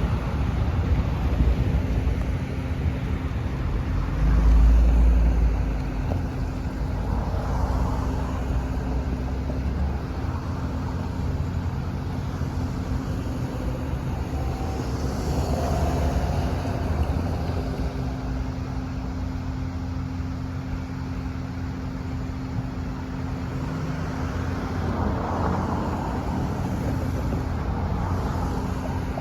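Freight train hauled by GE ES40DC diesel locomotives, running with a steady engine drone over a low rumble. A louder low rumble swells briefly about four seconds in.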